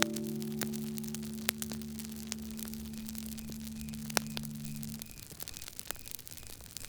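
Wood fire crackling with irregular sharp pops, under a low held musical note that stops about five seconds in. Faint cricket chirps repeat in the background.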